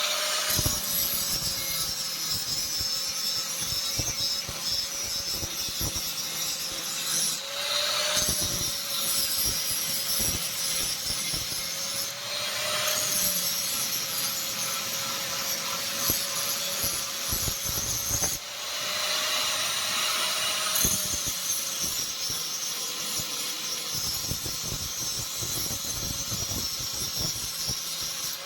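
Electric grinder grinding a steel spear blade cut from a truck leaf spring: a steady motor hum under a rasping grind that swells several times as the blade is pressed harder against it.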